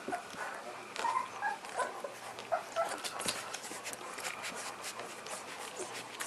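Newborn puppies whimpering in short high squeaks for about the first three seconds, then many small clicks and rustles.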